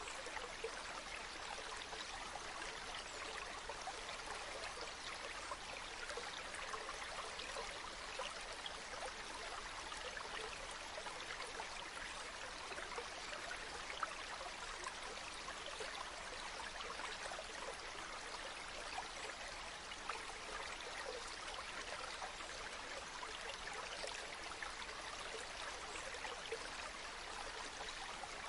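A small stream running and splashing steadily, with an even rush and many tiny splashes throughout.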